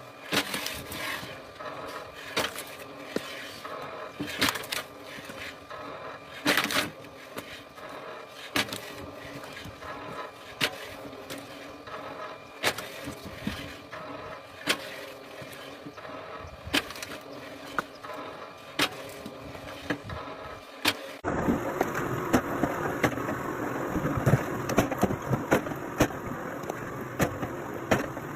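Machinery running with a steady hum and a sharp knock about every two seconds, then a sudden change, about twenty-one seconds in, to louder engine noise.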